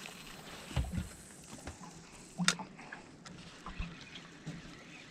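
Faint water sounds with scattered light knocks and clicks, the sharpest about two and a half seconds in.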